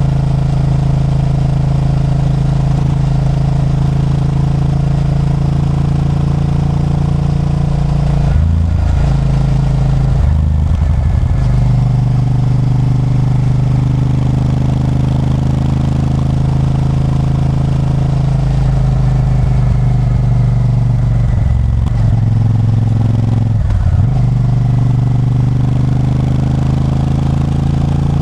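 Honda Varadero 1000's 1,000 cc V-twin engine running under way, its note steady for long stretches and dipping briefly and coming back a few times, about eight, ten and twenty-four seconds in.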